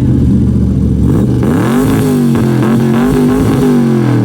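1966 Corvette's V8 idling, then revved up about a second and a half in, held high for around two seconds, and dropping back toward idle near the end.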